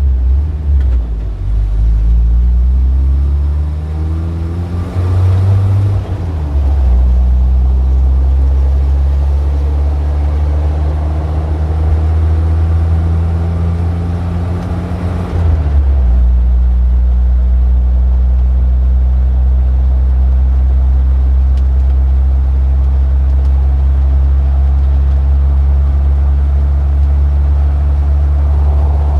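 Motor vehicle engine in street traffic, running loud and steady with a deep drone; its pitch rises and falls over the first several seconds as it revs and changes speed, then settles and holds steady, shifting once about halfway through.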